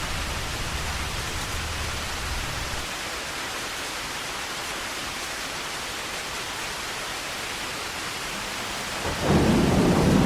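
Heavy rain falling in a steady hiss, with a low thunder rumble dying away in the first few seconds. A loud crash of thunder breaks in near the end.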